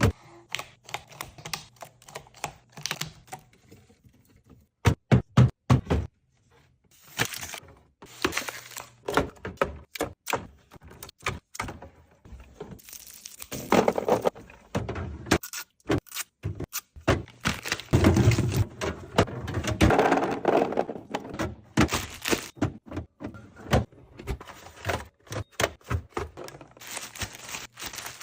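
Many quick clacks and thunks of plastic containers, lids and bottles being handled and set down, with longer noisy stretches of rattling in between.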